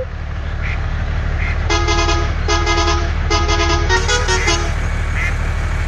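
Truck horn honking three times, starting about two seconds in, followed by a few quicker, shorter horn notes, over a steady low truck engine sound.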